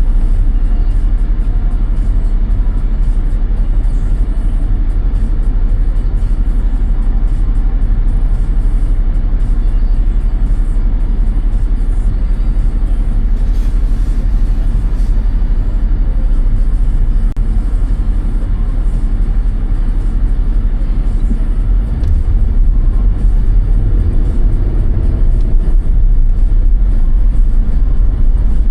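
Steady low rumble of a car driving on snowy roads, engine and tyre noise, growing somewhat louder about three quarters of the way through.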